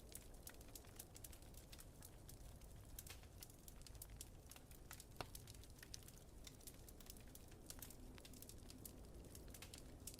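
Faint wood fire crackling, with frequent irregular small pops and snaps over a steady low rumble of wind.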